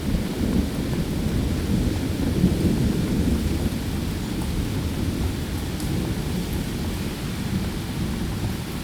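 Thunderstorm: steady rain with a continuous low rumble of thunder, a little louder in the first half.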